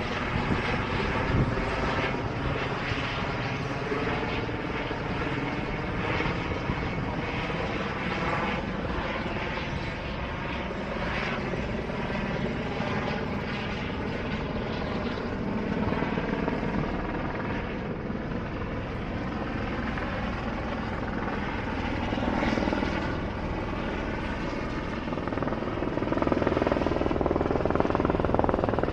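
Helicopter running: a steady rotor and turbine sound with a fast, regular pulsing from the blades, growing louder over the last few seconds.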